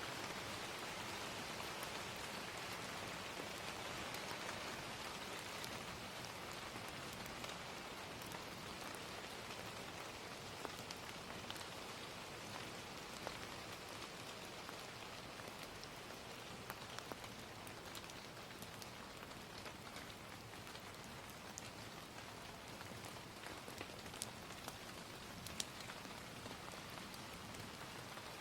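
Steady gentle rain falling, with scattered sharp pops of a crackling fire mixed in.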